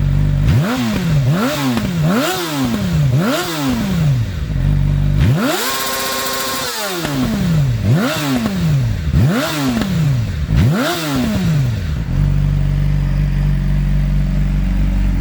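Yamaha R6 inline-four engine through a Toce aftermarket exhaust, revved hard: four quick throttle blips, a brief idle, one longer high rev that falls away, four more blips, then settling into a steady idle about twelve seconds in.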